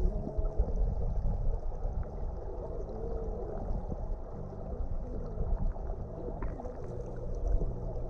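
Low, uneven rumble of creek water with wind buffeting the microphone.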